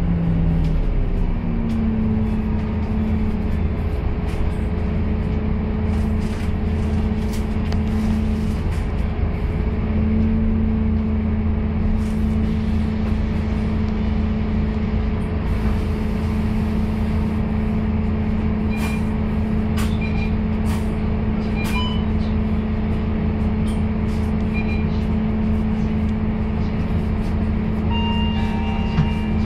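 Scania K230UB bus engine running under way, heard from inside the bus: a steady drone whose pitch drops and settles in the first two seconds, then holds even. Near the end a run of short electronic beeps sounds over it.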